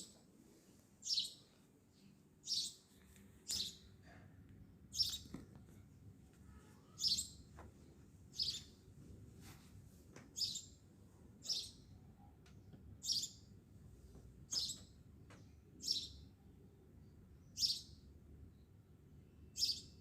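A bird repeating one short, high chirp about every one to two seconds, over a steady low background hum.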